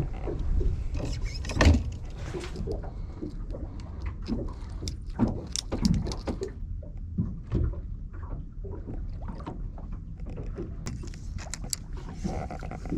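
Steady low rumble on a fishing boat, overlaid with irregular knocks, clicks and rattles of gear being handled; the sharpest knock comes about two seconds in.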